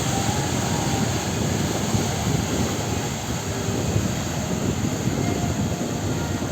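Steady rumbling noise aboard a motor ship under way.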